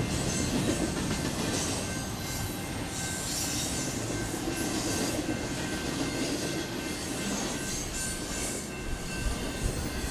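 Double-stack container well cars of a BNSF intermodal freight train rolling past at speed: a steady rumble and clatter of steel wheels on the rails, with two sharp clanks near the end.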